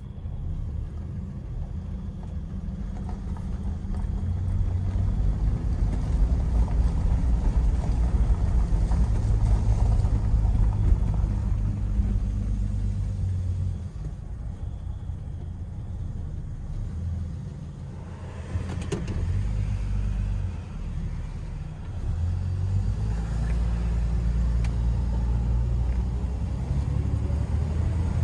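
Inside the cabin of a 1971 Dodge Dart Swinger under way: the slant-six engine and road noise rumble steadily, growing louder over the first several seconds, easing off around the middle, then building again toward the end. A brief sharp click comes just past the middle.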